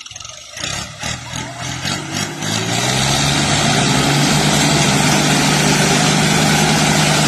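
Tractor engine starting: it fires unevenly for the first two or three seconds, then picks up and settles into a loud, steady run.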